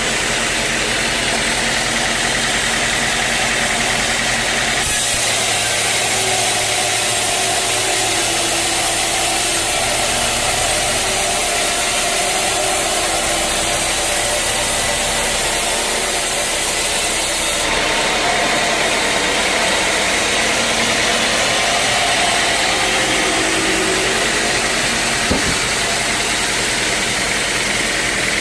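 A band sawmill running steadily with its engine. From about five seconds to about eighteen seconds a harsher, brighter hiss joins it as the blade cuts through a teak log.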